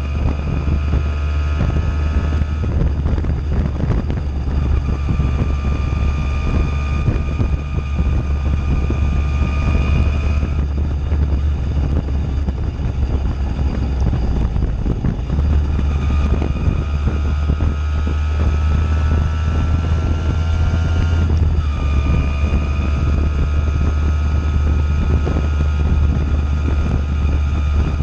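Simson moped's two-stroke single-cylinder engine through a JW 85G+ aftermarket performance exhaust, running under way with wind on the microphone. The engine note climbs slowly and drops sharply twice, about 10 and 21 seconds in.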